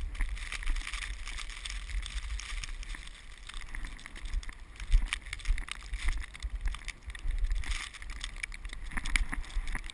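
Vehicle driving through drifted snow in strong wind: a gusting low rumble with scattered crackles and knocks, the loudest knock about five seconds in.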